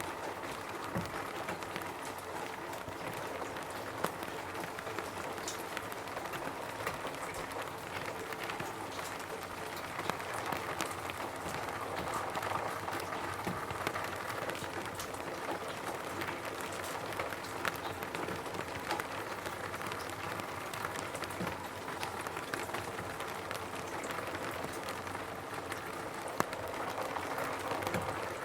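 Rain falling steadily on a roof: an even wash of drops, with a few louder single drops ticking out above it now and then.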